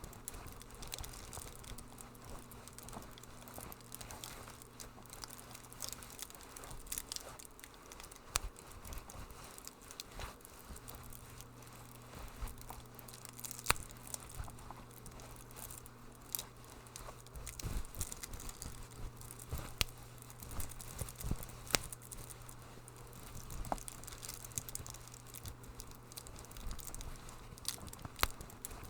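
Wood fire crackling in a fireplace: irregular sharp pops and snaps over a soft hiss, with a steady low hum underneath.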